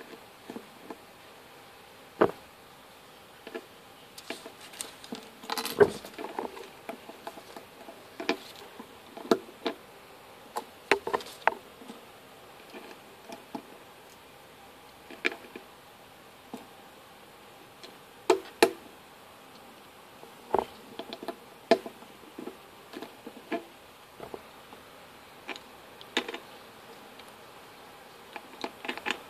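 LEGO pieces being handled: irregular sharp plastic clicks and taps, some single and some in quick clusters, over a faint steady hum.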